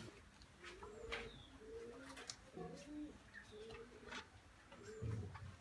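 Faint, low bird calls repeating over and over, with scattered soft clicks.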